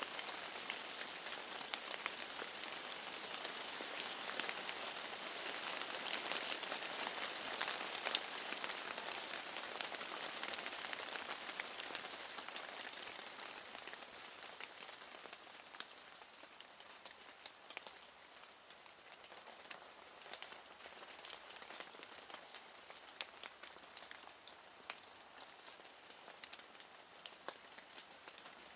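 Steady rain falling, with many separate drops ticking through the hiss; it eases and grows quieter about halfway through.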